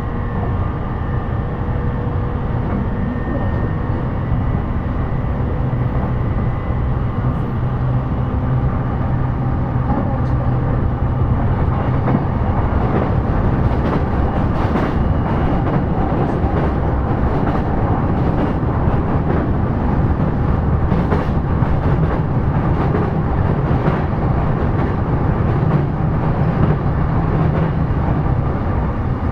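Cabin running noise of a JR E233-series electric commuter train at speed: a steady rumble of wheels on rail. A faint whine fades out about six seconds in, and a cluster of sharp clicks from the track comes through the middle stretch.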